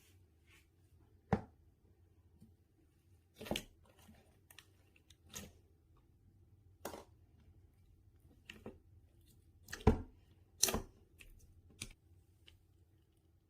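Hands working slime, giving about ten irregular sharp sticky pops and clicks. The loudest come about a second in and again near the end.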